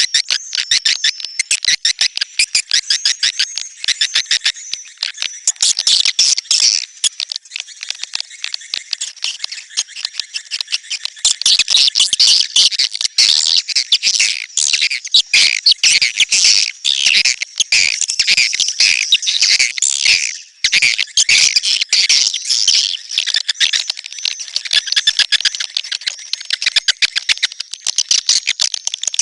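Swiftlet calls: a dense, unbroken stream of rapid, high twittering chirps, briefly dipping about two-thirds of the way through. This is a 'netral' swiftlet call recording, the kind of lure sound played to draw swiftlets into nesting houses.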